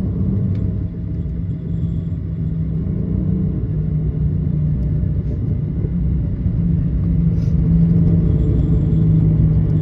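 Airliner cabin noise while the jet rolls on the ground after landing: a steady low rumble of the engines and wheels with a held drone, growing a little louder in the second half.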